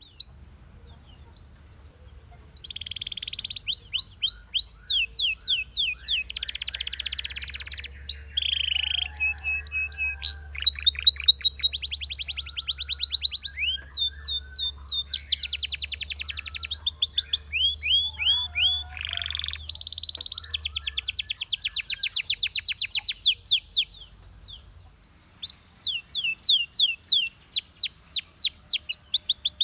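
Belgian canary singing: a song of rapid trills, each a run of quickly repeated high notes at its own speed, with short pauses near the start and about three-quarters of the way through.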